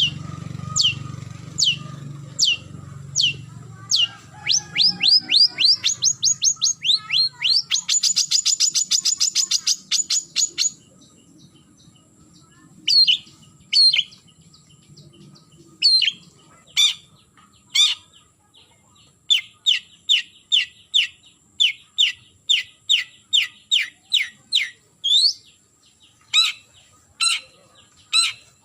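Long-tailed shrike (cendet) giving harsh, repeated down-slurred calls to challenge a rival. About four seconds in they speed into a rapid chattering run; after a short pause they return as separate calls at about two a second.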